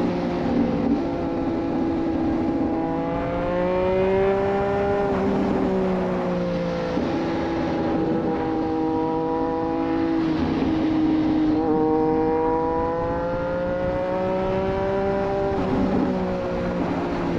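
2024 Triumph Street Triple 765 RS inline three-cylinder engine running through a Racefit Growler full exhaust system under way. Its pitch climbs and falls as the throttle opens and closes, with a sudden pitch step about every four to five seconds as the gears change.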